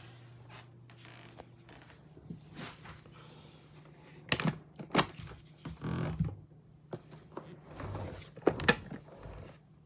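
A few sharp clicks and knocks, as of hard plastic parts being handled, over a low steady hum: a cluster about halfway through, a scuffing rustle just after, and two quick clicks close together near the end.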